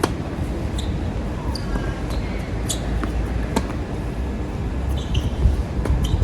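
Tennis balls being struck and bouncing in a rally, a few sharp pops spread over several seconds, over a steady low rumble of strong wind buffeting the microphone.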